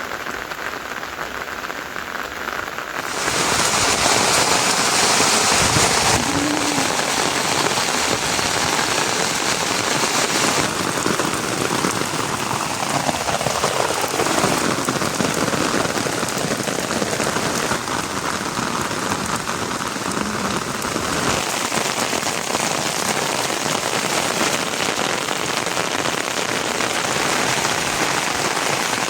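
Rain falling steadily, an even hiss that gets louder about three seconds in and changes in tone a few times.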